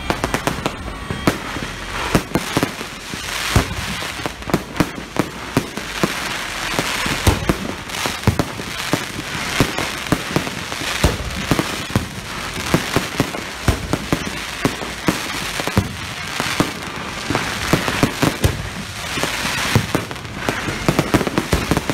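Aerial fireworks going off in rapid, continuous succession: many sharp bangs of bursting shells over a dense crackle.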